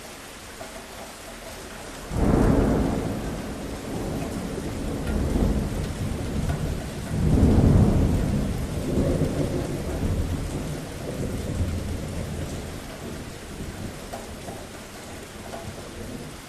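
Steady rain with thunder: a low rumble breaks in suddenly about two seconds in, swells again louder near the middle, then rolls away while the rain goes on.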